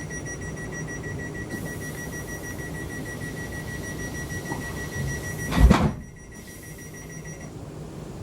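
A train door warning sounding as a rapid run of high electronic beeps, over the low hum of a London Midland Class 350 electric train. A loud thump comes a little before six seconds in, typical of the sliding doors shutting, and the beeping stops shortly after.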